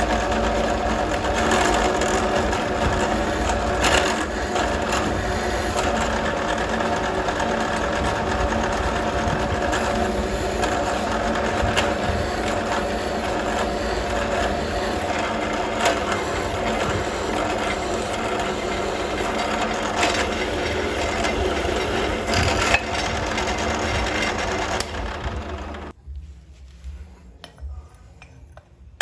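An electric power tool running steadily while working steel, with a steady motor hum and grinding noise. It cuts off about 26 seconds in, leaving only faint sounds.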